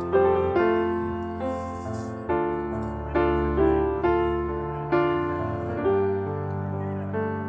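Background music: slow piano chords, each struck and left to fade, about one a second.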